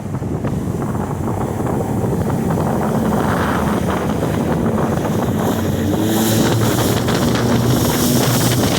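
Xpress bass boat's outboard motor running hard and building speed, its pitch edging upward, with wind on the microphone and the rush of water and air growing louder in the last few seconds.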